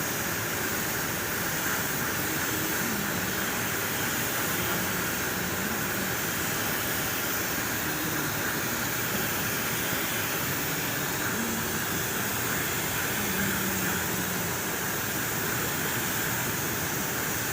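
Steady, unbroken hiss of rushing air during car spray-painting, from the spray gun or the paint booth's air flow.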